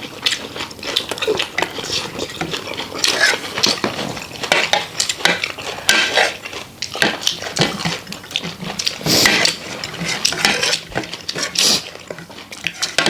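Spoons clinking and scraping against plates and bowls in many short, irregular strikes, as food is scooped up from the dishes.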